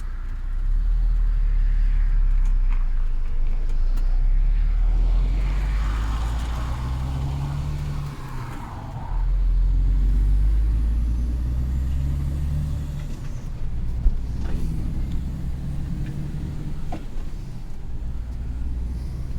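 Heavy truck engine running under load with a deep low rumble, easing off briefly about eight and a half seconds in and then pulling again. A sharp click about fourteen seconds in.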